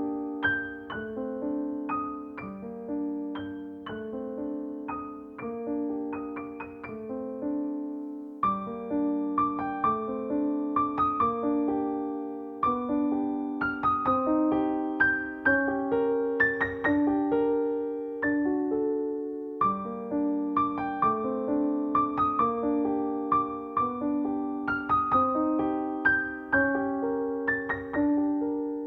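Solo piano background music: gentle chords and melody with struck notes that fade, at a steady unhurried pace.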